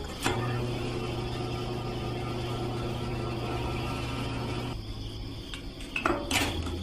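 A small electric motor humming steadily, dropping away about three-quarters of the way through, followed by a couple of light clicks.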